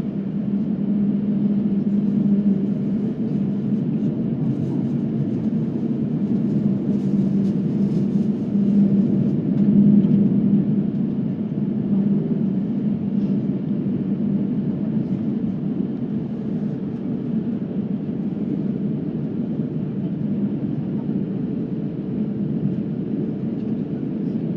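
Jet airliner's engines and airflow heard from inside the passenger cabin: a steady low rumble with a slight swell now and then.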